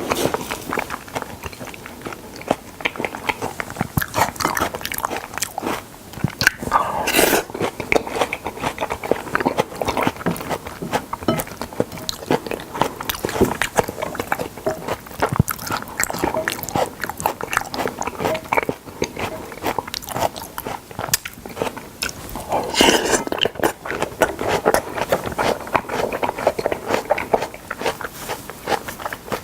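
Close-miked eating of salmon: continuous biting and chewing, a dense run of small mouth clicks and smacks. There are two louder stretches, about a quarter and three-quarters of the way through.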